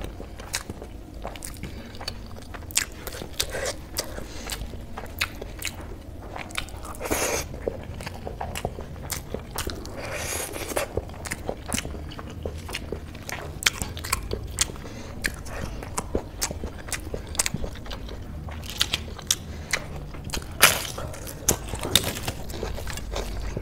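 Close-up eating sounds: chewing mouthfuls of rice mixed with black-eyed pea curry, with a steady run of small wet mouth clicks and smacks and a few louder soft breaths between bites.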